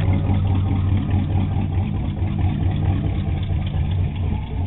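1972 GMC pickup's 350 V8 idling steadily through an open exhaust with no muffler, the pipe cut off under the cab.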